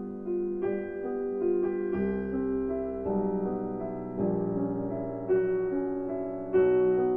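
Slow, gentle piano music: soft sustained notes and chords, a new one struck about every second.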